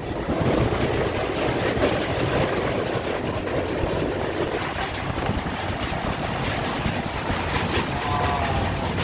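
Indian Railways express train running at speed, heard from on board: a steady rumble of wheels on rails with scattered clicks, as the train crosses a river bridge.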